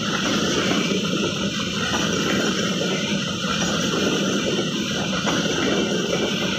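Train passing close by: a steady, loud rumble and roar of wheels on the rails, with a low hum underneath.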